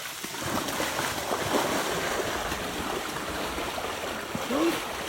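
Water rushing and splashing, with a brief rising tone about four and a half seconds in.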